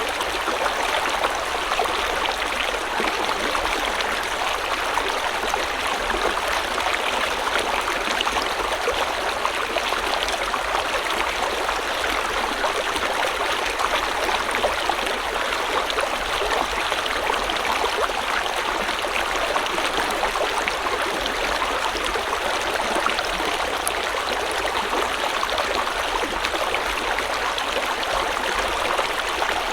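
River water flowing steadily over rocks, a constant rushing and burbling with fine splashing detail and no change in level.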